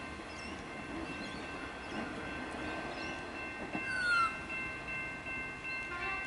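X'Trapolis electric suburban train pulling away from the station, running with a steady high tone above it. A short bird call cuts in about four seconds in.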